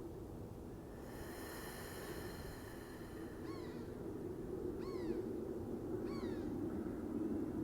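An animal calls three times, each a short rising-and-falling note a second or so apart, over a steady low background hum. A thin, high, steady whine is heard from about one to three seconds in.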